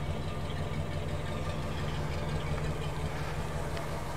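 A 1966–67 Mercury's 410-cubic-inch Ford FE V8 idling steadily through factory-style dual exhausts: a smooth, quiet, even low hum of an engine that runs well.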